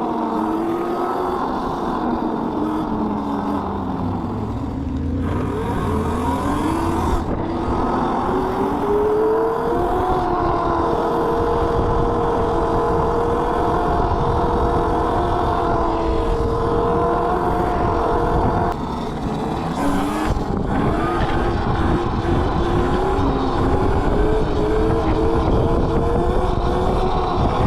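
Electric mini bike motor whining while riding, its pitch falling as it slows over the first few seconds, climbing from about four seconds in, then dipping and climbing again about two-thirds of the way through, over a low rumble.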